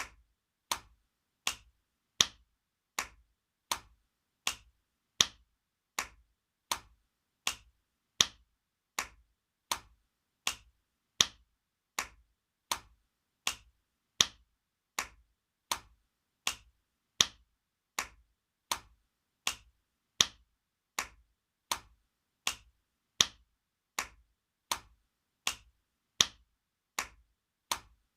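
Spanking sound effect: sharp hand slaps repeating steadily, about three every two seconds, some noticeably louder than the rest.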